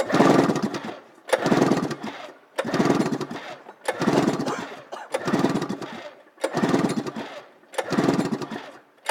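Arctic Cat Firecat 700 two-stroke twin being cranked over by hand with its recoil pull-starter, without firing. There are about seven hard pulls, roughly 1.3 seconds apart, each a rattling whir that fades. This is a compression test on the clutch-side cylinder.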